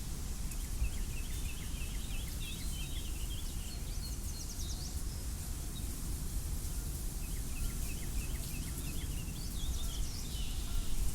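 Wind blowing steadily outdoors, with birds chirping in two spells, each including a quick high trill.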